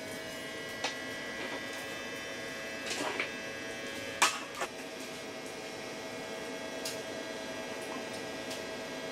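A small motor running at a steady speed with a constant hum, after spinning up just before. A few sharp clicks and knocks sound over it, the loudest about four seconds in.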